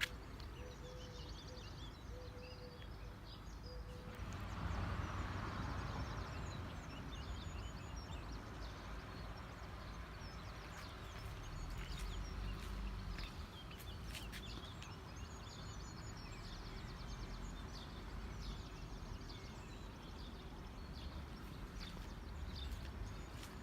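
Birds chirping and singing over a steady low background rumble, with a brief swell of rushing noise about five seconds in.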